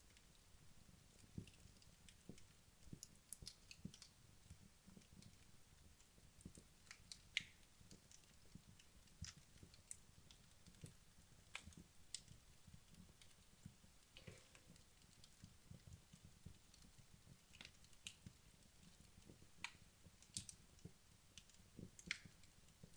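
Wood logs burning in a fireplace, crackling softly with irregular sharp pops and snaps over a faint low rumble of the fire.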